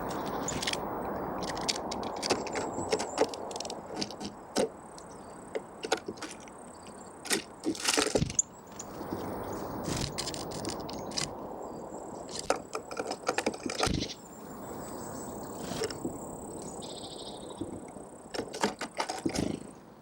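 Small birds pecking and cracking seeds, making irregular sharp taps and clicks, some in quick clusters, over a steady low background rumble.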